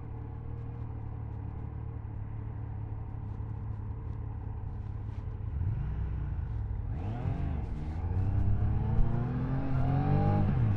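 Triumph Tiger Sport 660's inline three-cylinder engine running at a steady note, then accelerating about halfway through: the revs rise, drop sharply once as if for a gear change, and climb again, louder.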